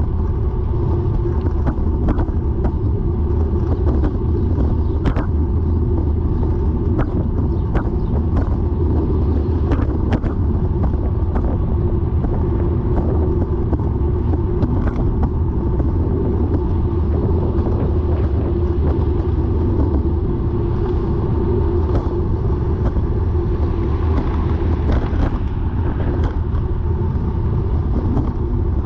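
Bicycle being ridden, with a steady low rumble and sharp clicks now and then: a rotational clicking from the drivetrain that the rider hopes is not the bottom bracket.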